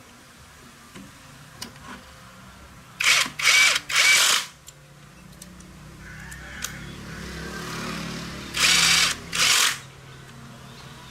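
Five short, loud bursts from a workshop tool in two groups, three about three seconds in and two near the end, each lasting about half a second.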